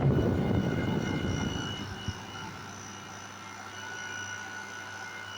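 Air conditioner's fan motor running, a whirring rush with steady whine tones; the rush fades over the first couple of seconds, leaving a quieter steady hum.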